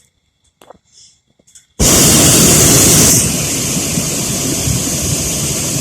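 Hot air balloon propane burner firing: a sudden loud roar starts about two seconds in, strongest for the first second, then holds steady at a slightly lower level.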